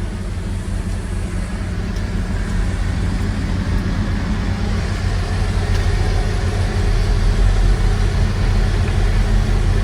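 Heavy diesel engine of a log loader running steadily, growing gradually louder as it works.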